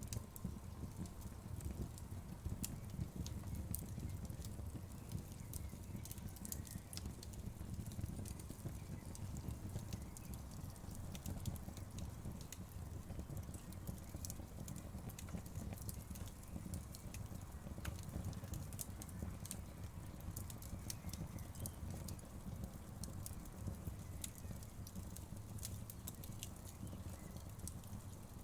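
Wood fire crackling: frequent small sharp pops and snaps, irregularly spaced, over a steady low rumble of the burning fire.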